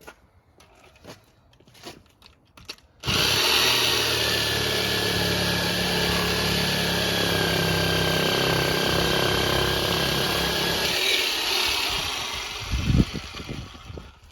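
Power tool cutting: it starts suddenly about three seconds in, runs steadily with a high whine for about eight seconds, then dies away, with a few knocks near the end.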